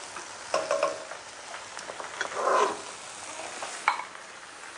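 Meat and oil sizzling steadily in a pot on low heat, with a few light clinks and knocks around the pot. A brief louder rustling hiss comes about two and a half seconds in.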